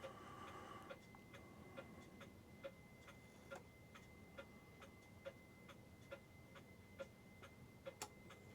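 New England Clock Company mechanical clock movement ticking faintly and evenly, a little more than one tick a second, with a sharper click near the end.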